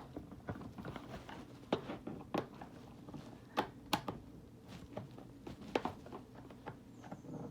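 Irregular light clicks and taps from handling the plastic parts of a toy learning table that is open on a table.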